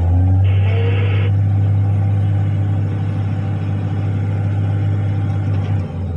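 Articulated dump truck's diesel engine running with a steady low drone, with a short hiss about half a second in.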